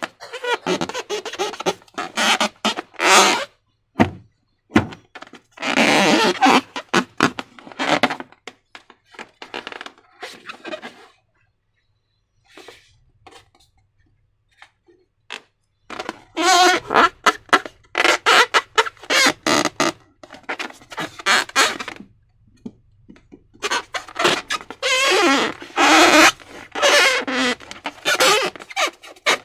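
Slime being squished and worked by hand: bursts of rapid wet clicking and squelching, with a quieter pause about halfway through.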